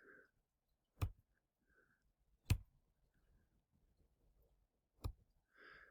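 Three short, sharp clicks spaced out over near silence: one about a second in, one about two and a half seconds in, and a fainter one about five seconds in.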